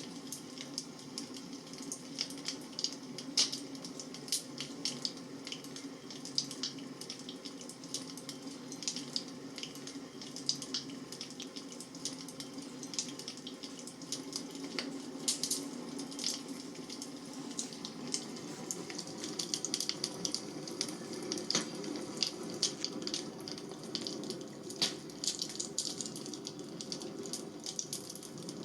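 Bonfire burning: frequent sharp crackles and pops at irregular intervals over a steady low rushing of the flames.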